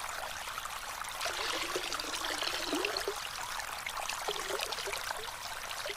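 Water trickling and gurgling steadily, with small splashy gurgles scattered through it.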